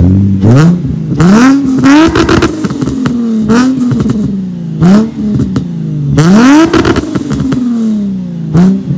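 Nissan 350Z's 3.5-litre V6 free-revved while parked, blipped about eight times in quick succession, each rev rising sharply and falling back toward idle. It runs through DC Sports headers, Berk test pipes, an ISR Y-pipe and an ISR single-exit exhaust, which make it louder than stock.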